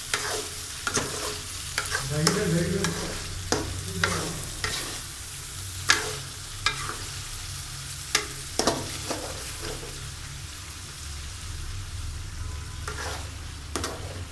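Chicken curry frying in oil in a pan with a steady sizzle. A spatula scrapes and knocks against the pan again and again at an uneven pace as the curry is stirred.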